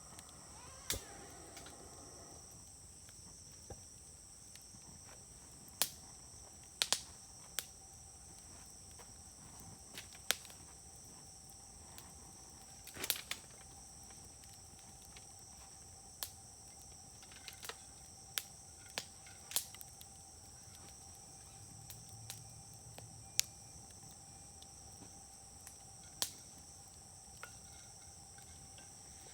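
Firewood burning in a Uniflame fire grill, crackling with a dozen or more sharp pops at irregular intervals. A steady high insect chirring runs underneath.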